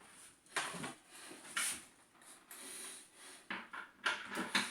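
Quiet handling noises between drill holes: a few soft knocks, rustles and a brief scrape as a plastic bucket and cordless drill are moved and repositioned, with a cluster of small knocks near the end.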